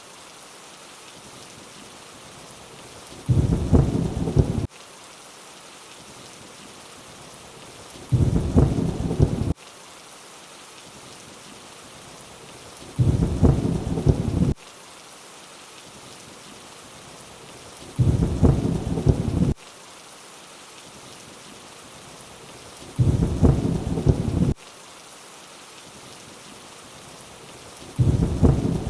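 Steady rainfall hiss with a short, low rumble of thunder about every five seconds, six times in all. Each rumble lasts about a second and a half and starts and stops abruptly, like a repeated looped clip.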